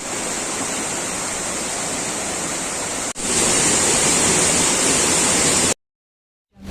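Rushing water of a waterfall, a steady even roar in two cuts. The second cut, a little over three seconds in, is louder, and the sound stops abruptly near the end.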